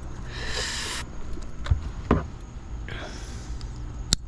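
Handling noises from fitting a car taillight assembly and its wiring: a brief scraping rustle, a couple of light knocks, another soft rustle and a sharp click near the end.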